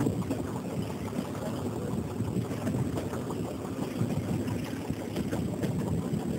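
Passenger train running along the track, a steady rumble with faint scattered clicks from the wheels, heard through an open carriage window.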